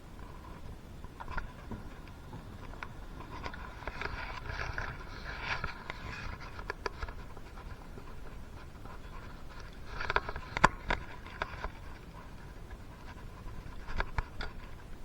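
Hand-work noises on engine parts: light scraping and rustling with scattered small clicks, and one sharper click about ten and a half seconds in.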